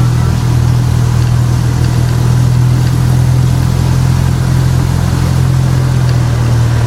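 Engine of a park ride train running at a steady speed, a constant low drone with the hiss of the ride underneath.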